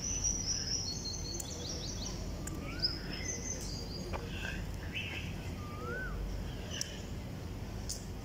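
Birds calling over a steady low background noise: high, rapid twittering and trills throughout, and twice a short whistle that rises and falls, with a few light clicks between.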